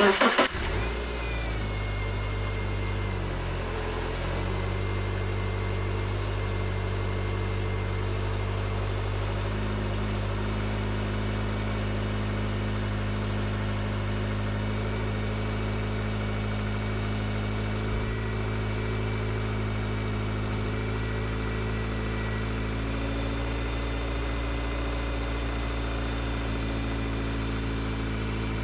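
Subaru Outback engine starting with a brief loud burst and settling into a steady idle, with a faint high whine running above it.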